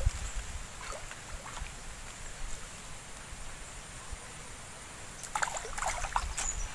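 Water splashing and sloshing as hands and a mesh net are worked in the shallow water at the bank, with a quick cluster of splashes about five seconds in, over a low wind rumble.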